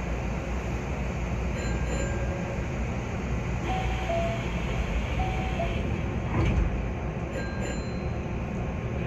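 Hankyu 1300-series electric commuter train standing at a station and starting to pull away: a steady low rumble with a few faint short tones. A single knock comes about six and a half seconds in.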